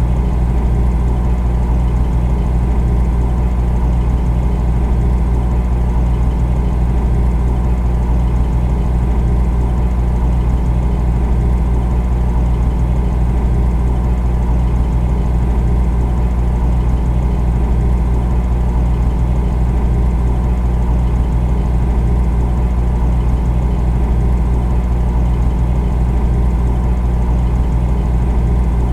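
Refrigerator running, a steady low hum that does not change.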